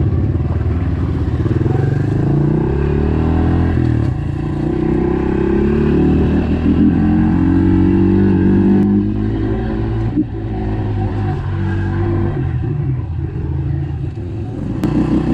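Small four-stroke pit bike engine running hard, its pitch rising and falling as it is revved up and backed off, with a short dip about ten seconds in.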